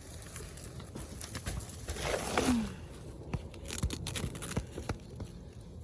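Potting soil and potatoes tipping out of a fabric grow bag: a rustling, pattering rush of soil, a brief falling vocal sound about two seconds in, then a few scattered sharp clicks and knocks as clods and potatoes land.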